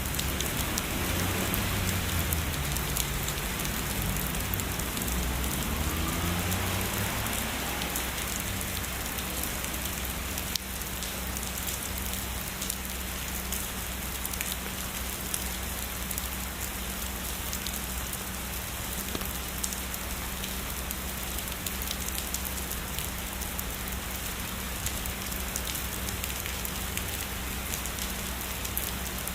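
Steady heavy rain falling, an even hiss of drops. A low rumble of distant thunder sits under it for the first several seconds and fades out.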